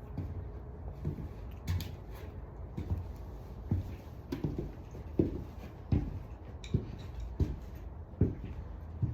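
A string of light knocks and taps at irregular intervals, about one a second, over a low steady hum: handling noise from work on wires and tape.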